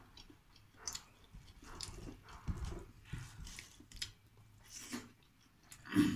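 A person chewing food close to the microphone: irregular wet mouth clicks and smacks, with a louder mouth sound near the end.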